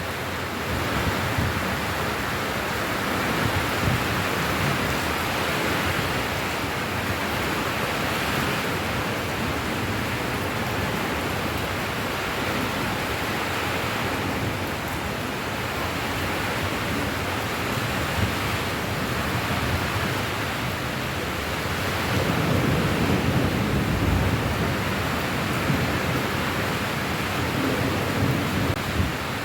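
Steady heavy rain, an even hiss throughout. A low rumble swells for a few seconds about three-quarters of the way in.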